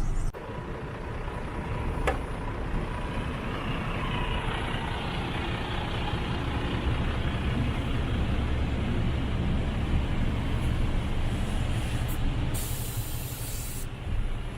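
Mercedes Actros 2545 truck's 12.8-litre straight-six diesel running with a steady low rumble, a click about two seconds in, and a short hiss of air from the air-brake system near the end.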